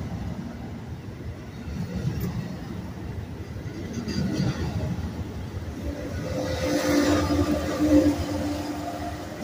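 Departing NJ Transit push-pull train rolling past, its double-deck coaches rumbling on the rails as it picks up speed. Near the end the trailing ALP-46A electric locomotive goes by, pushing the train, and adds a steady electric hum; this is the loudest part.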